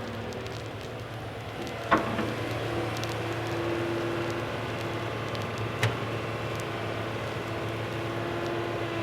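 Small electric motors of a radio-controlled toy excavator running over a steady hum, with a whine that starts and stops in spurts. A sharp knock comes about two seconds in and another near six seconds.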